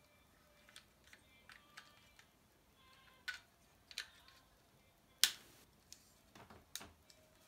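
Lego bricks being handled: small plastic clicks and taps at irregular intervals, the sharpest about five seconds in.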